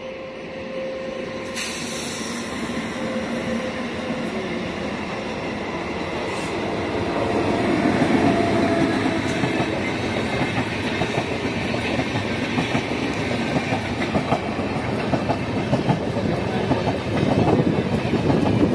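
Indian Railways express train approaching and growing steadily louder, then its coaches rolling past close by, wheels clattering rhythmically over the rail joints.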